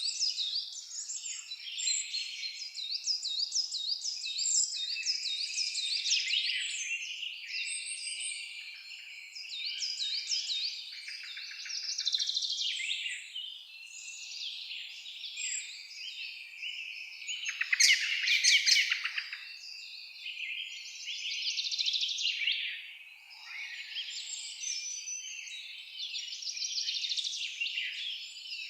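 Several songbirds singing and calling together in a dense chorus of chirps and trills, with a rapid run of repeated notes sweeping down in pitch near the start and a louder burst of fast notes just past the middle.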